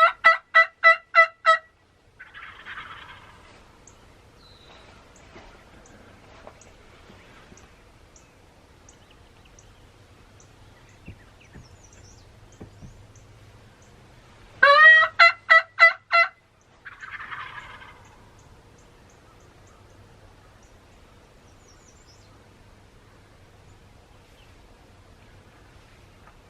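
Wild turkey calls, heard twice: a loud series of about seven yelps, each time answered about a second later by a fainter, more distant gobble from a tom.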